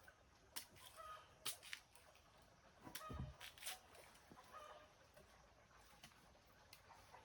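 Faint, brief animal calls, like those of a bird, repeated several times among a few sharp clicks and a low knock about three seconds in.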